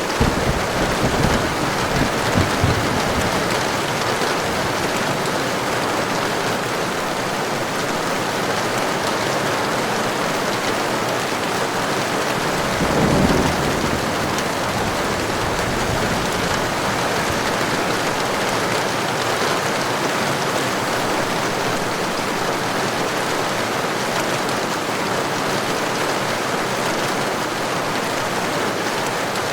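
Heavy rain falling steadily, a dense even hiss. Low thunder rumbles come in the first couple of seconds and again about 13 seconds in.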